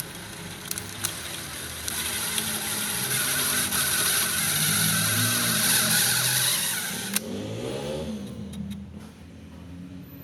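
A power tool's motor runs loudly and steadily for about seven seconds, then cuts off abruptly and winds down. Background music with stepped bass notes plays underneath.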